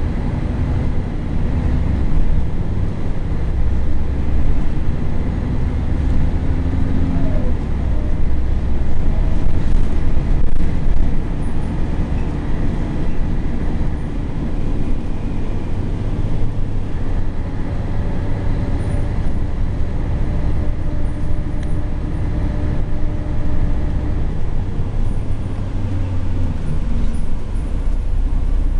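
Scania L113CRL city bus's 11-litre straight-six diesel engine running under way, a steady heavy rumble whose pitch rises and falls as the bus speeds up and changes gear.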